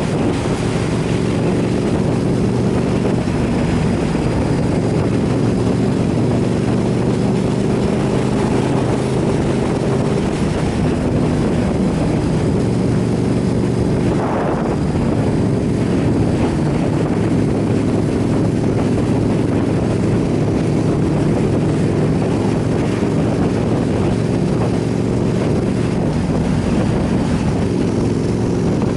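Motorcycle engine running steadily at cruising speed, heard from on the bike, with wind rushing over the microphone.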